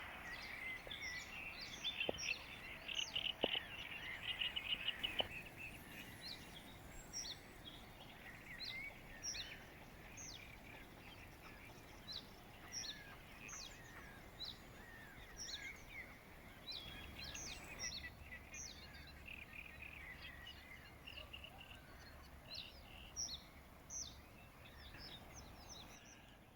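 Wild birds chirping and calling: many short, high calls scattered throughout, with a faster buzzy chatter in the first few seconds, over a faint steady outdoor background.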